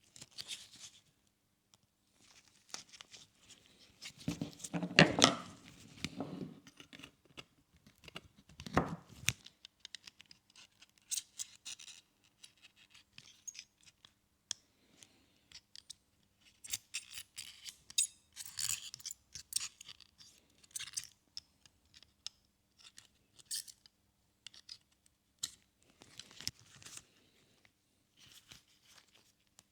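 Hand-work sounds from a headlight bulb swap: scattered clicks, snips and rustling, with a louder stretch of knocking and rustling about four to six seconds in and another knock near nine seconds.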